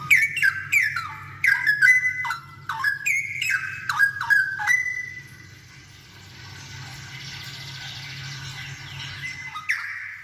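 Straw-headed bulbul (cucak rowo) singing vigorously: a rapid run of loud, rich whistled notes, many falling in pitch, for about five seconds. It then goes quiet until one more note near the end.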